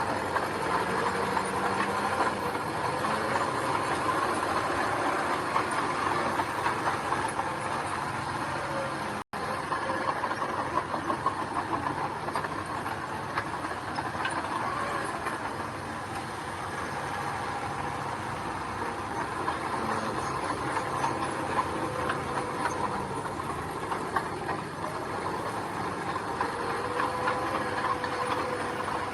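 Bulldozer's diesel engine running steadily with a dense mechanical clatter, broken by a momentary dropout about nine seconds in.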